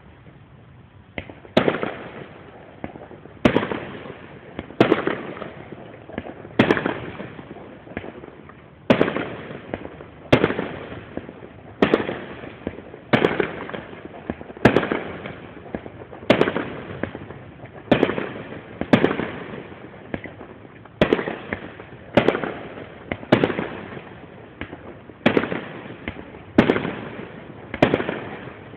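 Fireworks display: shells bursting one after another, a bang about every second to second and a half, each one trailing off before the next.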